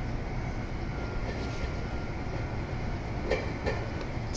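Red Meitetsu electric train approaching along the line with a steady low rumble, and two short clicks of its wheels a little after three seconds in.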